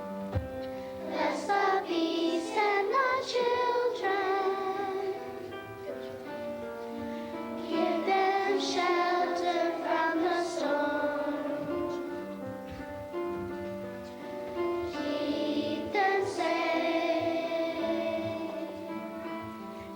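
Children's choir singing a slow song in long held notes, with instrumental accompaniment.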